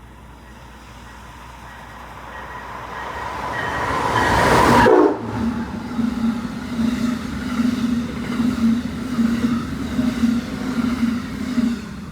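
Amtrak passenger train passing through the station at speed. It grows steadily louder to a peak about five seconds in, which cuts off sharply. The cars then roll by with a pulsing hum of wheel beats, about two a second, until the train has passed near the end.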